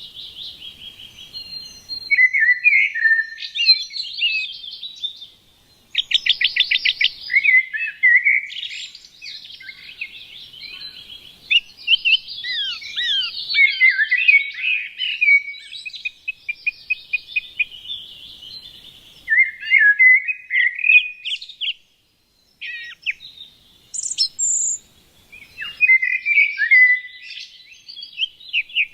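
Small songbirds chirping and singing, several calls overlapping, with quick down-slurred notes and fast trills. The birdsong breaks off abruptly twice for a moment.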